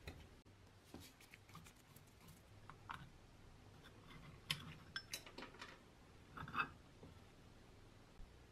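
Scattered light clicks and clinks of small hard objects being handled, a handful of sharper ones about four and a half to six and a half seconds in.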